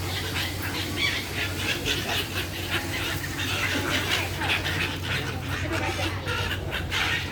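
A flock of birds calling, with many short overlapping calls throughout. A steady low hum sits underneath.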